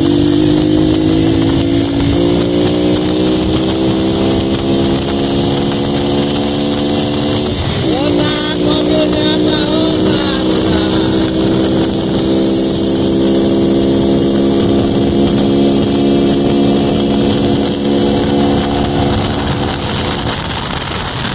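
Honda Pop 110i's single-cylinder engine pulling under load as the motorcycle is ridden. Its note climbs slowly, drops sharply at a gear change about eight seconds in, climbs again, and eases off near the end. Wind rushes over the microphone.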